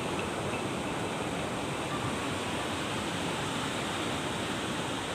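Steady rush of water with no distinct events.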